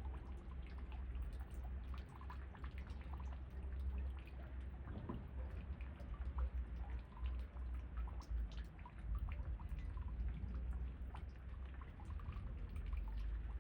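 Rain falling, with many separate drops heard close by, over a steady low rumble of wind.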